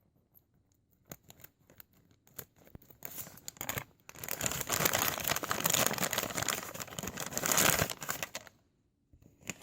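Plastic packaging of a Happy Meal toy being opened: a few small rustles and clicks, then about five seconds of continuous tearing and crinkling that stops suddenly, with one short rustle near the end.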